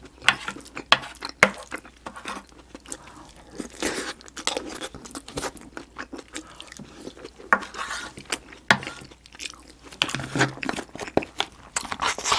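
Close-miked chewing and mouth sounds of eating fried rice, with a wooden spoon scraping and clicking against the metal pan.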